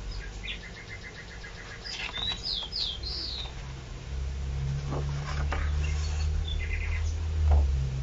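Small birds chirping: a quick run of short, evenly spaced chirps, then a few rapid falling whistled notes. From about halfway there is a low rumble with a few soft paper rustles as a book page is turned.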